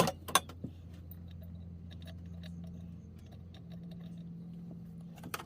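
Small metal clicks and taps of lantern parts being handled on the bench: a few sharp clicks at the start, scattered light ticks, and a cluster of clicks near the end, over a low steady hum.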